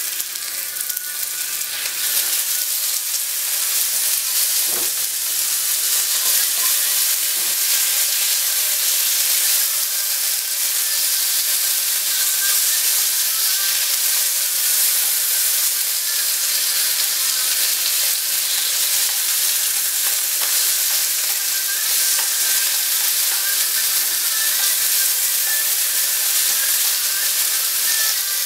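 Marinated chicken pieces frying in hot oil in a wok, a steady sizzle as they are stirred and spread with chopsticks. The sizzle grows louder about two seconds in.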